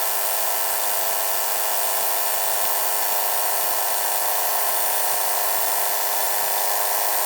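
A power tool running steadily, a high whine over a hiss that holds the same speed throughout.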